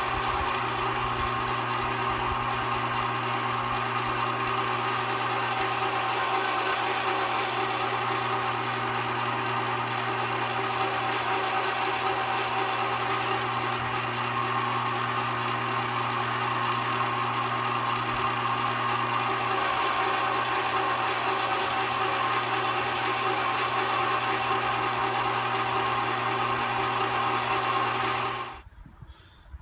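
Arksen 1 HP, 1100-watt #22 electric meat grinder running steadily while grinding bacon: a constant motor hum that stops suddenly near the end.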